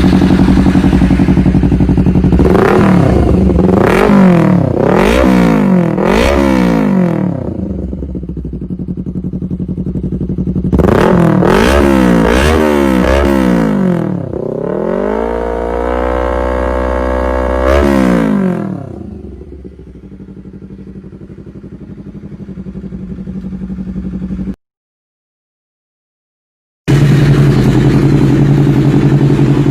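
Honda CBR250RR motorcycle engine revved through its exhaust: a series of quick throttle blips, a settle back to idle, more blips, then a rev held up and let fall back to idle. It cuts off abruptly and, after about two seconds of silence, comes back idling steadily.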